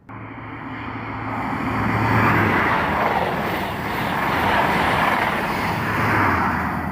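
Train passing close by, a loud rushing of wheels and air with a low engine hum underneath, building over the first two seconds and then holding steady.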